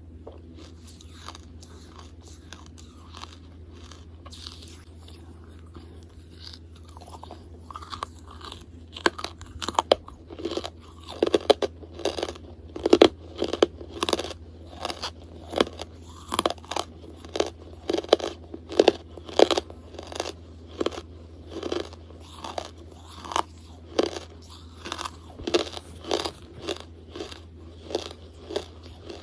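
Close-miked chewing of hard charcoal. Quiet chewing for the first several seconds gives way, about eight seconds in, to loud, regular crunches at roughly one to two a second as the lump is ground between the teeth.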